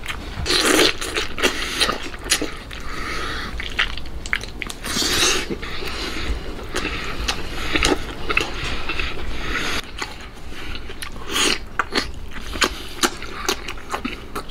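Close-up wet chewing and biting of smoked pig large intestines, with many short wet clicks and a few louder bursts.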